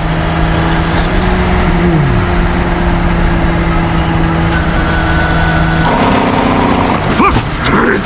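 A vehicle engine runs with a steady hum, and a short falling whine sounds about two seconds in. About six seconds in the hum stops and mixed, shorter sounds take over.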